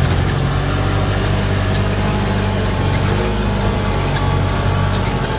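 Off-road buggy's engine running steadily.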